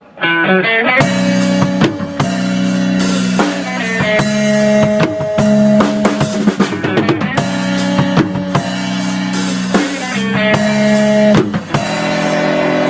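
A live band playing the instrumental intro of a song: a quick run of notes opens it, then a drum kit with bass drum and rimshots plays under held chords.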